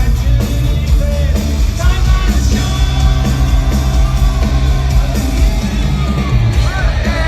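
Hard rock band playing loud live, with heavy bass and drums, and voices singing and yelling over the music.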